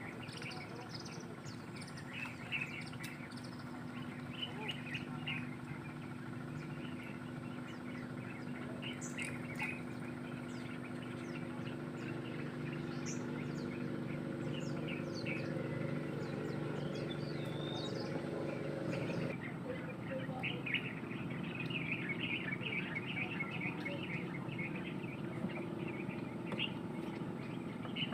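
Many small birds chirping and twittering in short, repeated calls, over a steady low hum.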